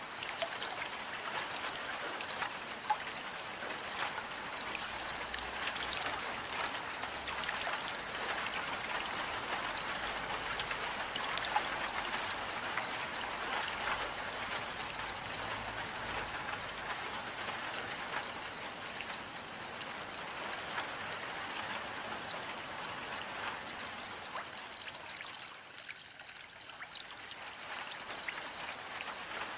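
Steady rain falling, a dense patter of small drops over a constant hiss, easing a little softer near the end.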